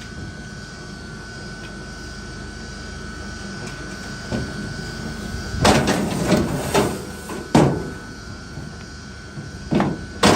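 Steady machine hum with a thin constant whine, with clusters of knocking and clattering of wood, once a little past halfway and again near the end.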